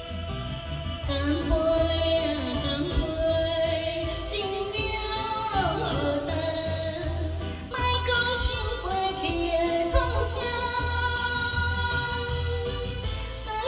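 A song: a voice singing a melody over an instrumental backing with a steady low beat.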